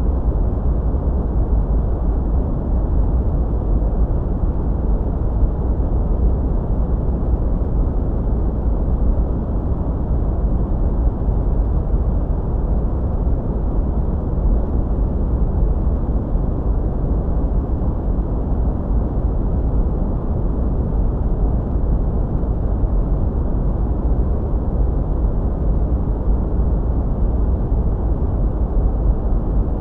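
Steady sleep-aid white noise, a deep, even rumble with little high end that never changes.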